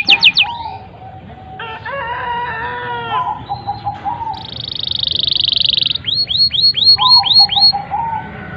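Domestic canary singing a long, varied song. It moves through runs of quick repeated down-slurred notes, a warbled passage, a fast high trill about halfway, and then another run of quick slurred notes.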